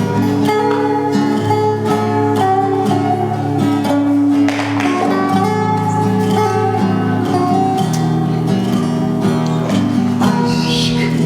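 Music: a plucked string instrument playing a melody of repeated plucked notes.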